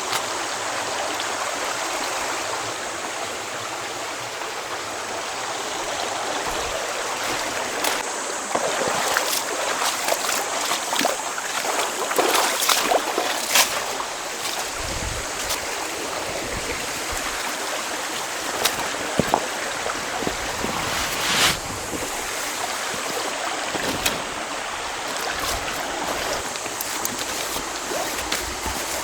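River water flowing steadily, with scattered short clicks and knocks.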